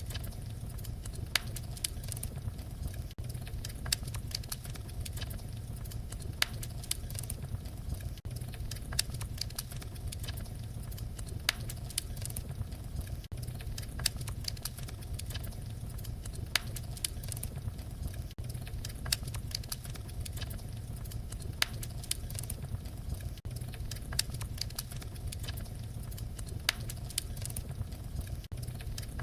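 Wood fire crackling, with frequent sharp irregular pops and snaps over a low steady rumble of the flames.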